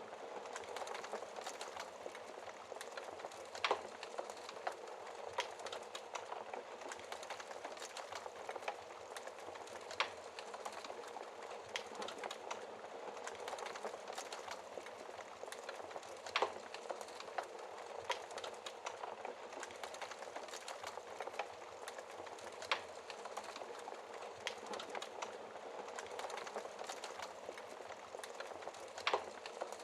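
Burning logs in a fireplace crackling steadily with fine snaps, and a louder pop about every six seconds.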